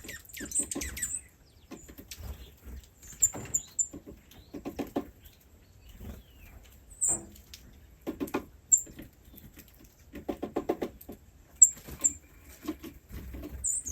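Tiny animals calling in clusters of rapid squeaky pulses, mixed with sharp high chirps.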